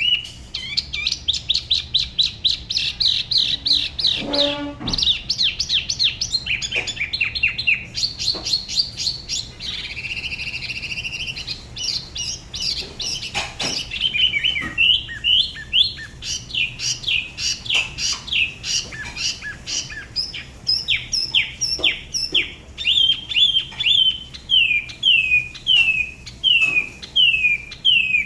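Spot-throated babbler singing a long, varied song: fast trains of short high notes, a warbled phrase about ten seconds in, then a run of clear down-slurred whistles at about two a second.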